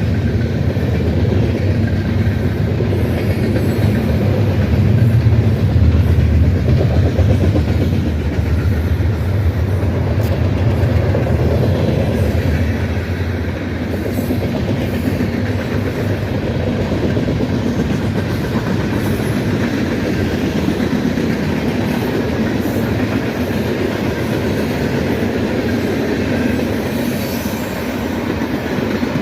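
Long freight train rolling past close by: a steady rumble of railcar wheels on the rails, loudest about six seconds in and easing slightly after that.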